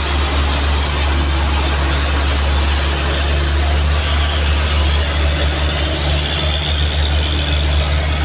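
Truck engine running steadily, a loud continuous low-pitched drone with engine noise spread above it.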